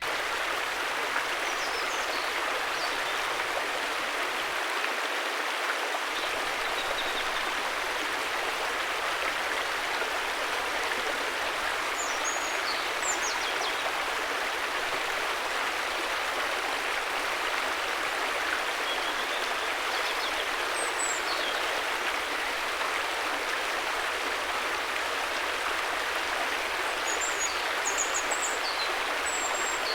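River water flowing in a steady, even rush. A few faint, short high chirps come now and then.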